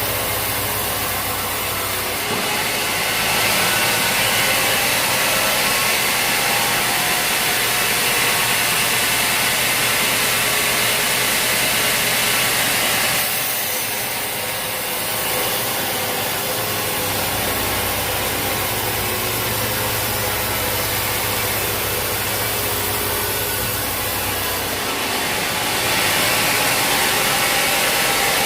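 A sawmill running, its engine humming under the hiss of the saw working through a log. The cutting noise grows a few seconds in, eases off around the middle, and rises again near the end.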